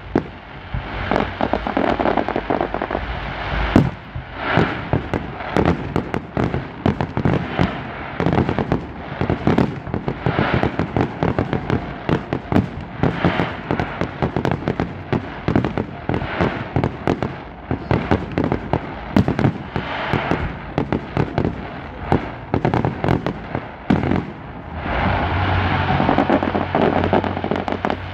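Fireworks display: aerial shells bursting in a rapid, unbroken barrage of bangs and crackling, many reports a second.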